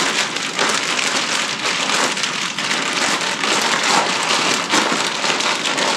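Plastic bag holding raw chicken breasts and dry seasoning being shaken and kneaded, its plastic rustling and crinkling without a break.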